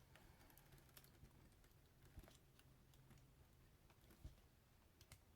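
Near silence: a faint low hum with a few scattered light clicks and rustles, typical of hands handling wreath stems and grapevine.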